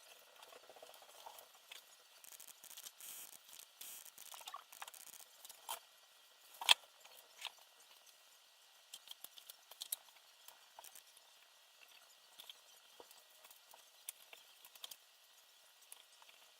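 Faint clicking and rustling of small parts and tools being handled during assembly, with one sharp click a little under seven seconds in and a few lighter ticks after it.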